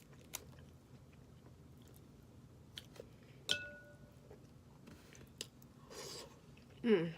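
Someone eating snow crab: quiet chewing with a few scattered clicks and cracks of crab shell, including one click about three and a half seconds in that rings briefly, and a short crunching patch near the end.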